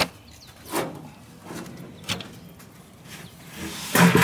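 Several separate sharp knocks and clicks, roughly one a second, then a louder, busier clatter near the end.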